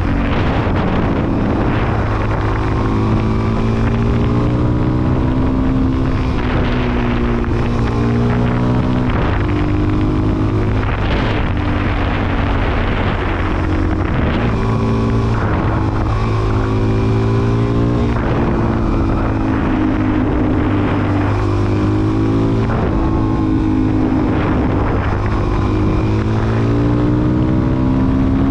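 Suzuki DR-Z400SM's single-cylinder four-stroke engine revving up and down through the gears while riding, its pitch repeatedly climbing and then dropping, with wind rushing over the microphone.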